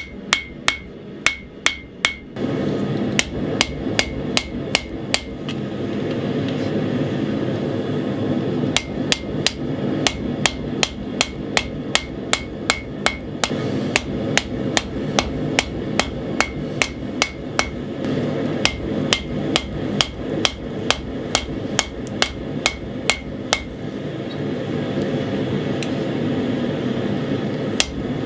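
Hand hammer striking hot 80CrV2 steel on an anvil, with a bright ring on each blow at about three strikes a second, in runs broken by short pauses. A steady rushing noise comes in about two seconds in and runs under the blows.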